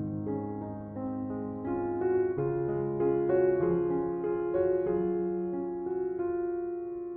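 Slow, gentle piano music: a melody of single notes over held low notes.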